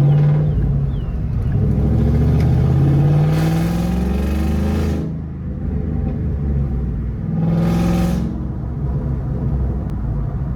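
Ford Mustang exhaust heard from inside the cabin, pulling hard with the engine note rising for a few seconds and getting louder, then easing off, with a second short surge near the end. It is kind of loud because the mufflers aren't fully connected.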